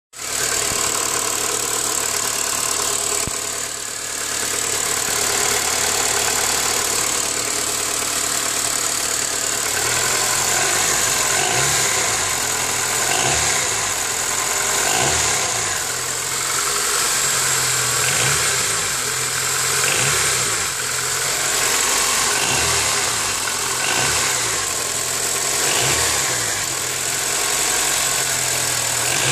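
Honda K20A6 inline-four engine idling with a strange mechanical noise that gets quieter once the engine warms up. From about ten seconds in, a pulsing swell repeats roughly every two seconds.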